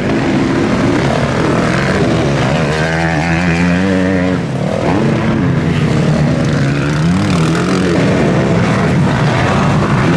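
Several motocross bike engines revving on the track, their pitch rising and falling as the riders open and close the throttle, with one bike standing out near the middle.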